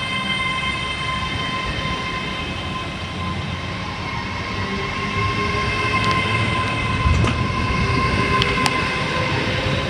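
Train running at the station: a steady high whine over a low rumble, with a fainter tone that rises slowly in pitch from about halfway through.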